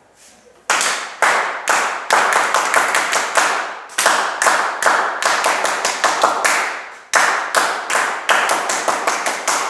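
Hands clapping in a steady rhythm, about two to three claps a second, starting shortly after a brief pause.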